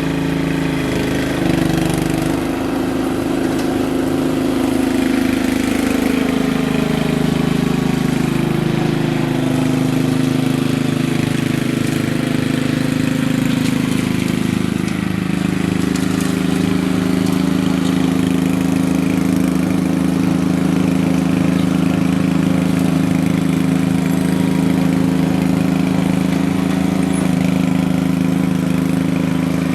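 Small gasoline engine running steadily. Its pitch shifts up and down during the first several seconds, then settles and holds.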